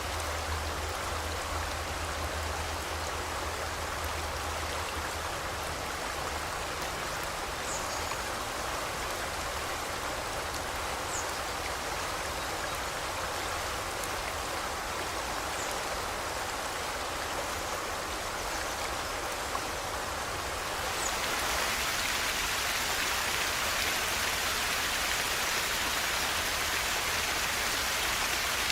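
Steady rushing of a forest stream's flowing water, with a few faint, brief high bird chirps. About two-thirds of the way in, the water gets louder and brighter and stays so.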